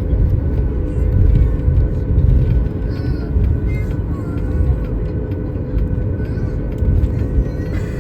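Cabin noise of a Boeing 737 MAX 8 taxiing on the ground: a steady low rumble with a constant hum and a few faint clicks.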